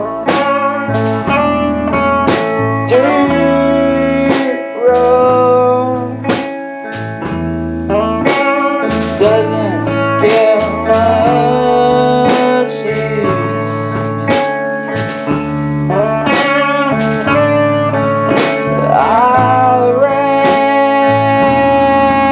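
Live rock band playing: steady drum hits, a stepping bass line and electric guitar with bent notes.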